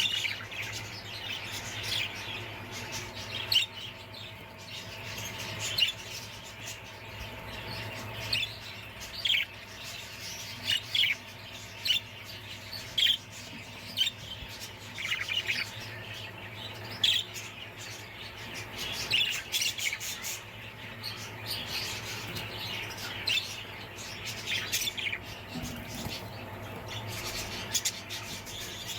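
Parrots chirping and squawking in short, sharp, irregular calls, over a steady low hum.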